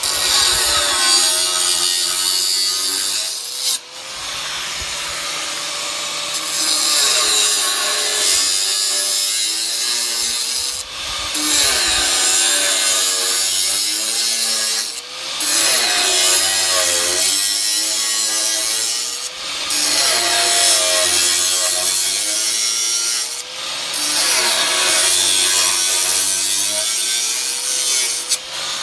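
Power tool cutting metal in a series of cuts about four seconds each, separated by brief pauses, its pitch dipping and recovering as the blade takes the load.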